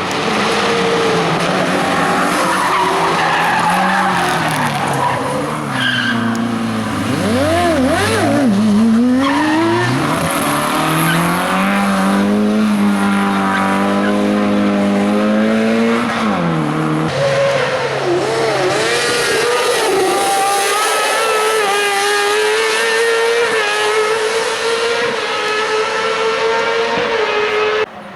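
Racing car engine revving hard, its pitch climbing and dropping repeatedly through gear changes and lifts; it holds high for a few seconds midway, then falls. Tyres squeal over it.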